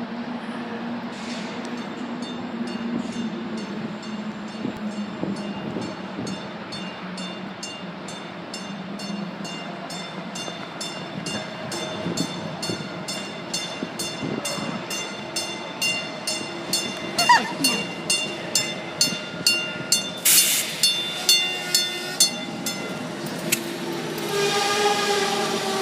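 NFTA Metro light-rail train running on its track, with a bell ringing in a steady regular beat that grows louder in the second half. A horn sounds near the end.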